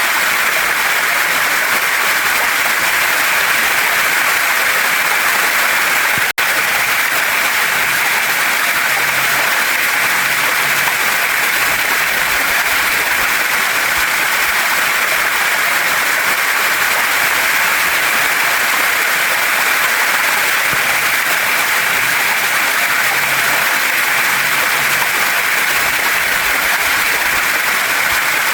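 Waterfall and stream water pouring and splashing over rocks in a steady, dense rush, with a split-second dropout about six seconds in.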